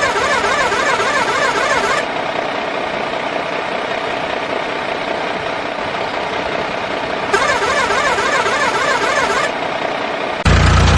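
Toy RC truck running: a steady motor-and-gear whine, with a warbling higher tone that comes in twice for about two seconds each. Near the end a louder, deeper engine-like running sound cuts in suddenly.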